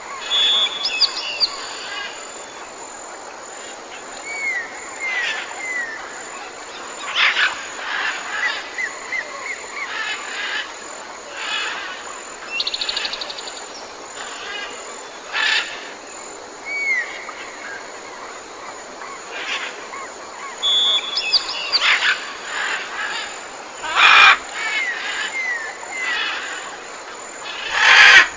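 Several wild birds chirping, trilling and whistling in short scattered calls over a steady outdoor hiss, with two sharp clicks near the end, about four seconds apart.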